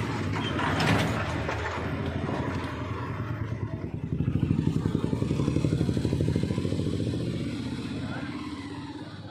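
Mahindra XUV500 engine turning over on the starter with a rhythmic pulsing that gets louder about four seconds in and fades near the end. This is the cranks-but-won't-start fault of an immobilised engine.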